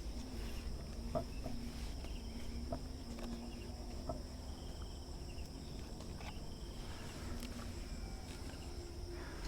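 Steady, high-pitched chorus of crickets or similar insects, with a few light knocks and taps over it, the sharpest about a second in.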